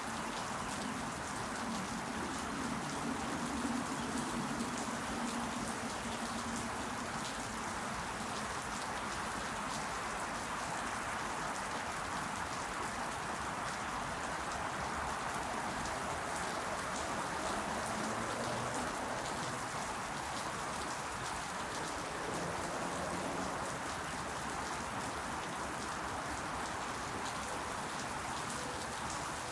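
Steady rain falling, an even hiss with many individual drops ticking through it. A faint low hum comes in near the start and again around the middle.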